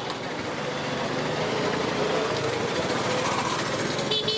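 Motorcycle riding on a highway: a light engine running steadily under road and wind noise, with a brief high beep near the end.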